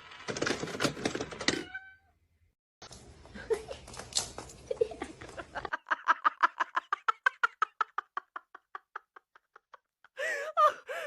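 Knocking and rustling, then a fast run of short repeated sounds that fades away, and a domestic cat's meow near the end.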